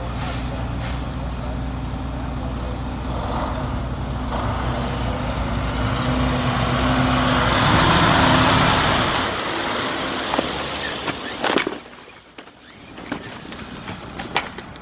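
A large truck engine running steadily under a broad rushing hiss that swells to its loudest about eight seconds in, then fades. The engine hum drops away about twelve seconds in, after a few sharp clicks.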